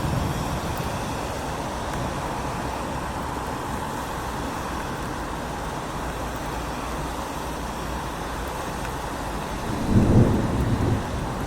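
Steady rain falling, with a low rumble swelling briefly near the end.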